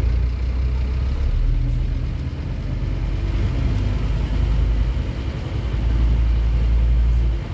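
Diesel engine of a Scania N230UD OmniCity double-decker bus running loud and low, its pitch stepping up and down several times.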